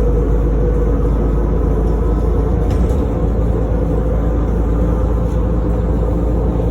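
City bus running, heard from inside the cabin: a loud, steady low rumble of engine and road.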